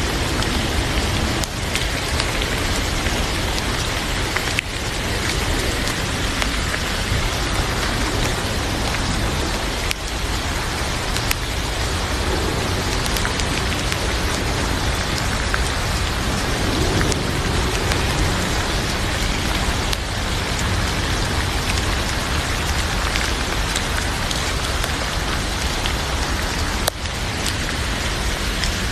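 Heavy rain falling steadily, mixed with the scattered crackle of a wood fire burning in a fireplace.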